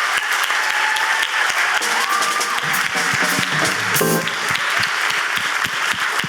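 Theater audience applauding, with a few whistled tones and a short loud pitched cry about four seconds in.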